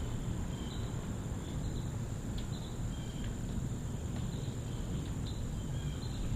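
Outdoor ambience: scattered short high chirps over a steady high insect drone, with a low rumble underneath.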